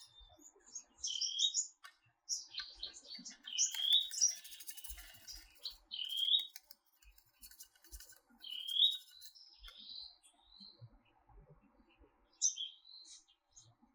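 Songbirds chirping: short, repeated chirps and whistled notes throughout, with a brief scratchy noise about four seconds in.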